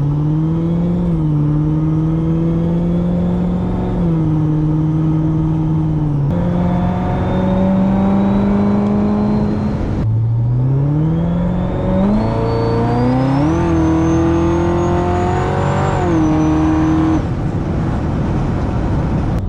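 Supercharged V8 Corvette with a cog-driven blower and full Corsa exhaust accelerating through the gears. Its pitch climbs and drops back at each upshift, several times. In the second half a high supercharger whine climbs alongside the exhaust and falls away as the throttle closes near the end.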